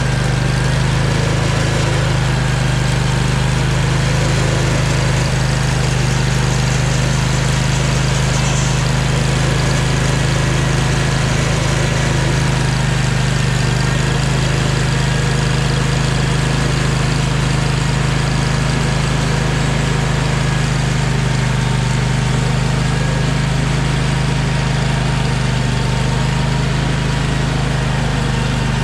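Engine running steadily at a constant speed, with a strong low hum and a faint steady whine above it.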